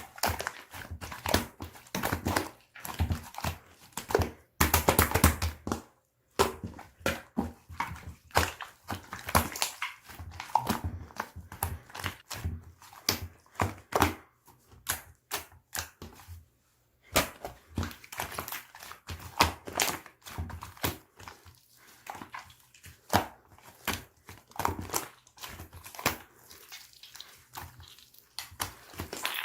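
Hands squishing, pressing and poking slime: a dense, irregular run of small sticky clicks and pops, with a couple of short pauses.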